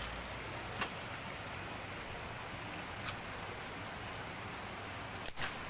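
A steady outdoor hiss with three short, sharp clicks, about a second in, about three seconds in, and a louder double click near the end.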